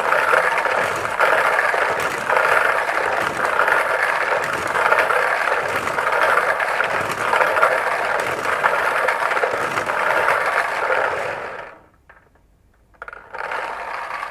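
Hand-spun lottery draw barrel turning, its contents tumbling and scraping inside with a rattle that swells about once a second, about ten turns in all. It stops about twelve seconds in.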